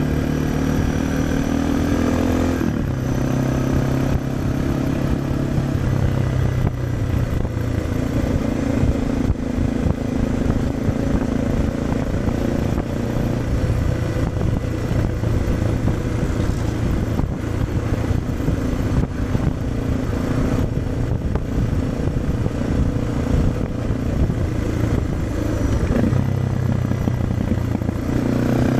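Suzuki DR650 single-cylinder four-stroke engine, through an aftermarket Dominator exhaust, running at road speed, heard from a helmet chin-mounted camera mic with wind buffeting. The engine note drops about two and a half seconds in, then holds steady. It dips again near the end and rises as the bike accelerates.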